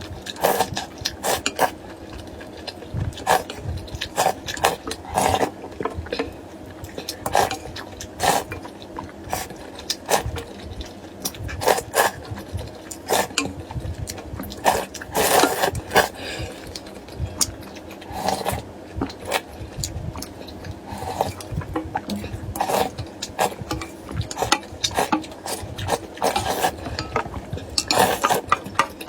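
Close-miked eating of duck blood vermicelli soup: irregular short clicks of utensils against the bowl mixed with chewing and slurping of noodles and broth, with a few longer slurps, one about halfway through and another near the end.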